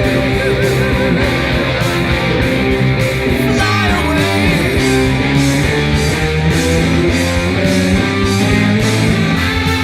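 Hard rock music: electric guitar over bass and a steady drum beat, with vibrato-bent notes in the first second.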